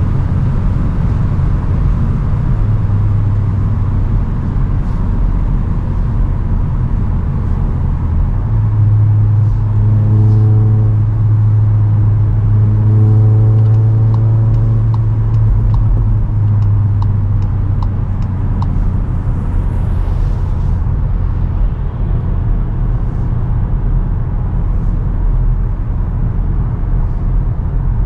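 Cupra Ateca's turbocharged four-cylinder engine, stock exhaust, droning steadily at high Autobahn speed over road and wind noise. The engine note swells about a third of the way in and eases off later, with a run of light, evenly spaced ticks in the middle.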